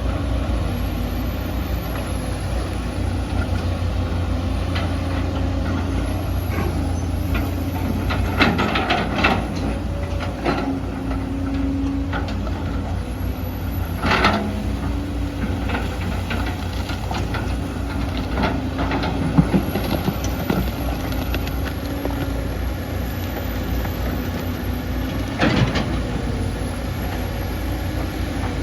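Excavator's diesel engine running steadily, its pitch shifting slightly as it works, with a few sharp knocks scattered through, the loudest about two-thirds of the way in.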